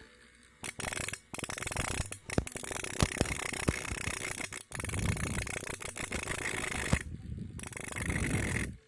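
Homemade angle grinder, a cutting disc spun by a small CD/DVD-player motor, grinding into a thin iron strip: a harsh scraping noise that starts about half a second in and runs in bouts with several brief breaks. The low-torque motor cuts only a little into the iron.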